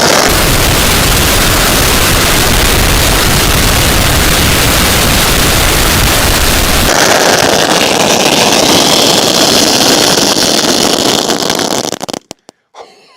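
A 16,000-shot roll of firecrackers going off in one continuous, dense, loud crackle. It cuts off abruptly about twelve seconds in, leaving a few last pops.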